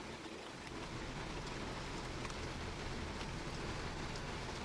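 Heavy rain falling steadily, an even hiss with a few faint ticks of drops.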